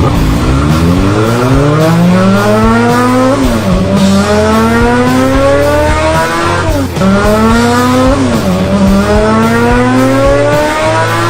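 Motorcycle engine sound accelerating hard through the gears. The pitch climbs steadily, then drops at each of three shifts: about three and a half seconds in, about seven seconds in, and again about a second and a half later.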